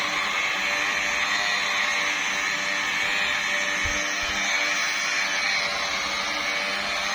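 Electric car polishing machine running steadily on a car bonnet's paint, with a constant whirring hiss throughout.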